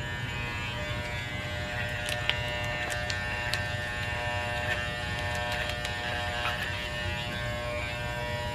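Electric hair clippers running with a steady buzz while shaving a small dog's coat, with a few faint clicks in the middle.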